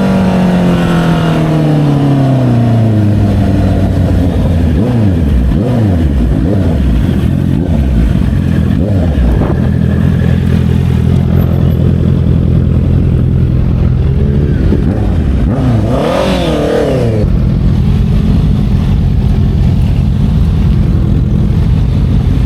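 Motorcycle engine running loudly under a moving rider. It slows with a falling pitch over the first few seconds, then rises and dips several times as the throttle changes. It settles to a steady note, rises and falls sharply once about two-thirds of the way in, and runs steadily again.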